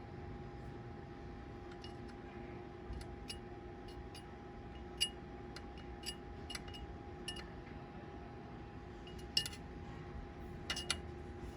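Light metallic clinks and taps, about a dozen at irregular spacing, the loudest about halfway and near the end, as steel pieces are handled in a welding shop, over a steady electrical hum. No welding arc is heard.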